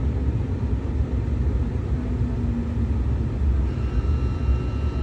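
Steady low rumble heard from inside a car going through an automatic car wash, with a faint high steady hum joining about three-quarters of the way in.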